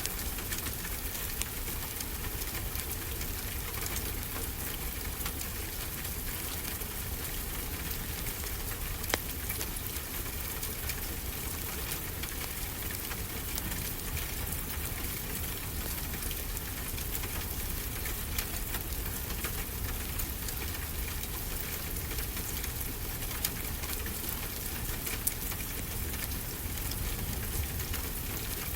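Fireplace wood fire crackling, with scattered sharp pops over a steady hiss and a low, even rumble from the ocean-wave track mixed beneath it.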